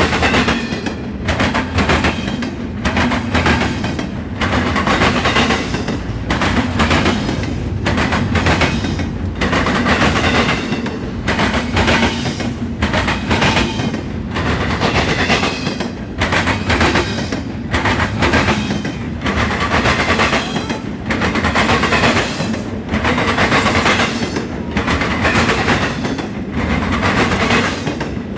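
Norfolk Southern intermodal freight train passing up close, its car wheels clattering over the rail joints in a steady rhythm of sharp knocks, about one or two a second, under a continuous rolling rumble.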